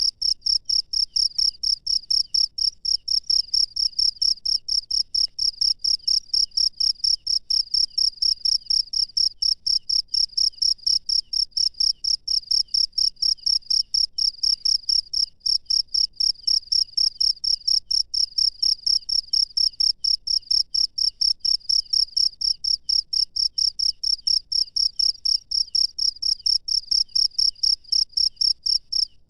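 A single cricket chirping steadily, a high, even chirp repeated about three times a second.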